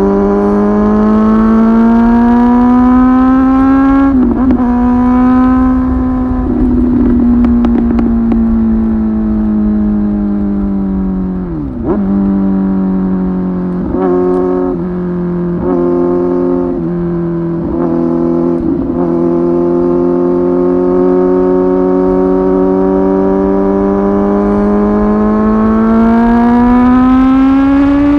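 Kawasaki ZX-10R Gen 3's inline-four engine through a Tyrants titanium muffler, heard from onboard while riding. The revs climb, break at a gear change about four seconds in, and sag slowly. Near the middle they drop sharply and pick up again, then cut briefly several times before running steady and rising again near the end.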